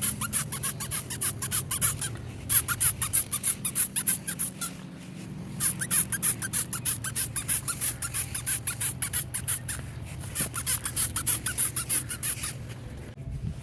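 Trigger spray bottle of degreaser pumped rapidly: a fast run of short hissing sprays, stopping briefly about five seconds in and again near the end.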